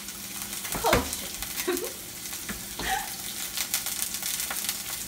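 Onion, garlic, ginger and green pepper sizzling and crackling in hot oil in a pan. A few knocks and scrapes of a stirring utensil against the pan break in, the loudest about a second in.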